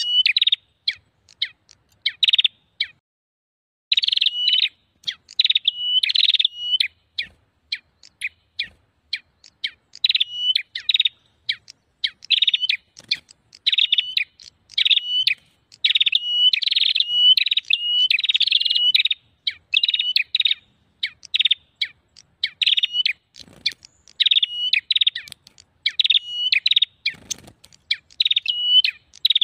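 Prenjak birds calling in a fast, noisy ('ribut') run of sharp chirping phrases, about one a second, with a short break about three seconds in. This is a prenjak lure call (suara pikat), used to draw wild prenjak in.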